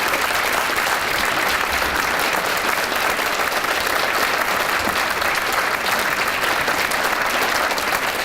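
Audience applauding: a steady, dense patter of many people clapping.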